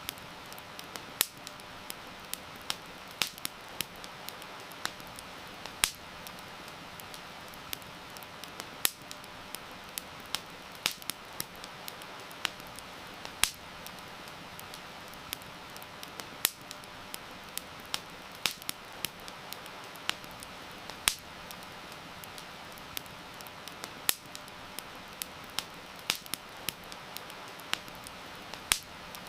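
Campfire crackling with irregular sharp pops and snaps over a steady hiss of heavy rain.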